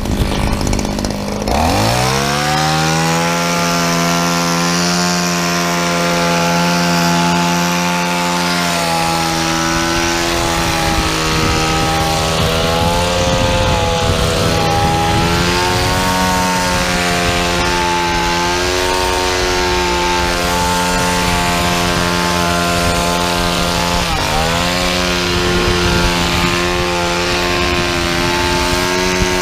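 Shindaiwa DH230 hedge trimmer's small two-stroke engine revving up to high speed about a second and a half in, then running at high revs while its new blades trim a bush. The pitch wavers under the cutting load and dips briefly, then recovers, near the end.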